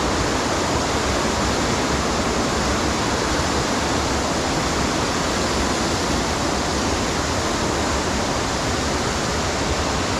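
Waterfall rushing steadily as the water drops and spreads over rocks: a dense, even roar of falling water.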